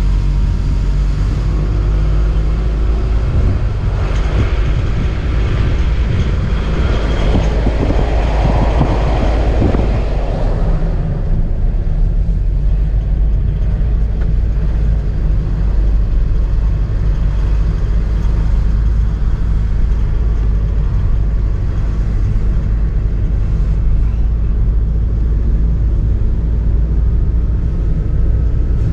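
Car driving slowly on a road, heard from inside the cabin: a steady low rumble of engine and tyres. A louder, brighter swell of road noise comes from about four seconds in to about eleven seconds in.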